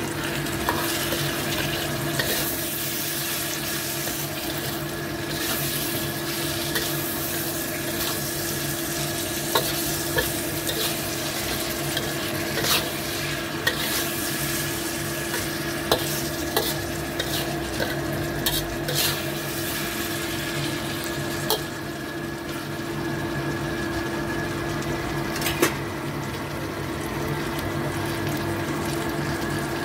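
Chopped tomatoes, shallots and chillies sizzling in a steel wok while a metal spatula stirs them, with scattered sharp clicks and scrapes of the spatula against the pan. A steady hum runs underneath.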